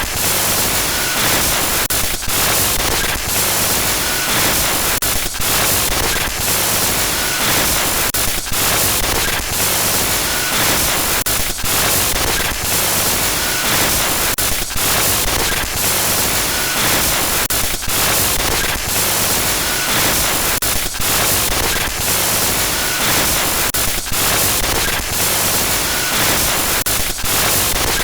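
Loud, harsh glitch static: a dense hiss across all pitches, stuttering with many brief, irregular dropouts and faint short high blips every few seconds.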